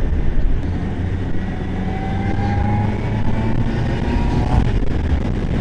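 Honda CBR650R's inline-four engine running on the move over a low rumble, its pitch rising slowly from about a second and a half in until near the end.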